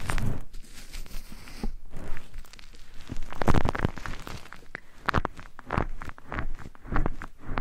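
ASMR ear-cleaning sounds close on a microphone: irregular scratching and rustling strokes, some longer and louder than others.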